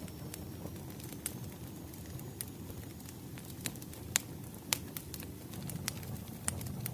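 Wood fire crackling: a steady low rumble with sharp, irregular pops, the loudest about four and five seconds in.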